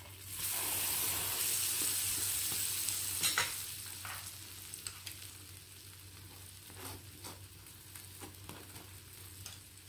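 Butter sizzling on a hot non-stick tawa under a gram-flour-battered bread sandwich that has just been flipped. A loud sizzle rises about half a second in and holds for about three seconds, with a sharp clack near its end. It then settles into a softer sizzle with scattered small pops.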